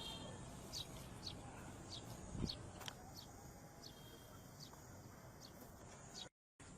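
Faint outdoor background of small birds chirping: short high chirps, roughly every half second, over low ambient noise. The sound cuts out completely for a moment near the end.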